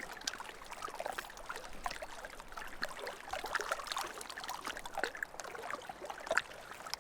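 Water lapping and trickling in small irregular splashes.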